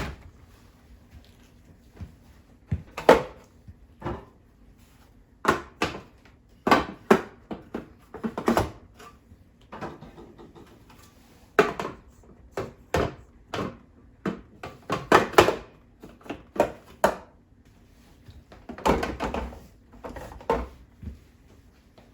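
Irregular knocks, clicks and clatters of items and fittings being handled, set down and moved in and around a refrigerator during cleaning, with a denser stretch of handling noise near the end.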